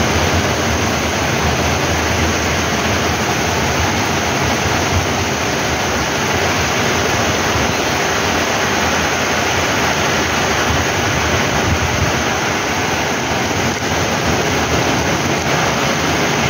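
Heavy rain pouring steadily onto a paving-block street, an even hiss of water that holds the same level throughout.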